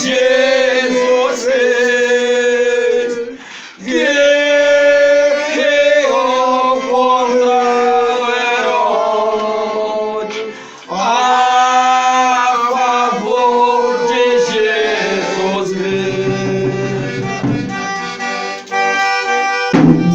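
Accordion playing a melody in sustained phrases, with short breaks about three and a half and ten and a half seconds in.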